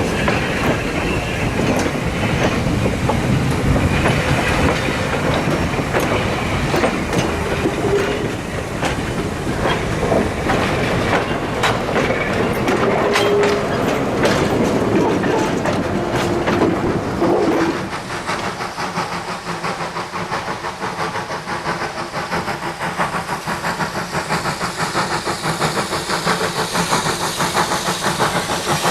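Train rolling past with the clickety-clack of wheels over rail joints and a few short wheel squeals. About two-thirds of the way through the sound drops and turns into a fast, even mechanical pulsing.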